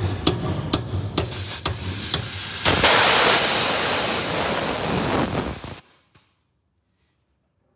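Several sharp clicks, then a loud, steady hiss of compressed air venting from a truck's air brake system around the air dryer, which cuts off suddenly a few seconds later.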